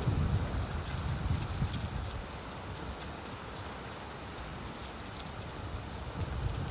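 Steady rain falling, an even hiss of drops. A low rumble of thunder dies away over the first couple of seconds and swells again near the end.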